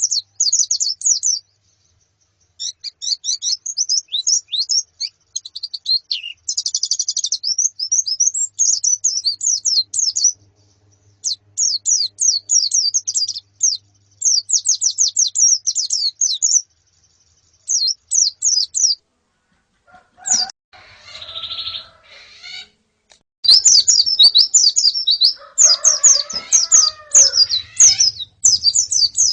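White-eyes (pleci) chirping loud, rapid high-pitched twittering phrases of a second or a few seconds each, with short pauses between them. About two-thirds of the way in, and again near the end, lower wavering calls mix in, as from a colony of birds.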